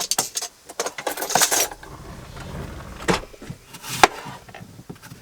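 Kitchen utensils and a container being handled while ingredients are mixed by hand: scattered clicks and knocks, a scraping stretch about a second in, and two sharper knocks later.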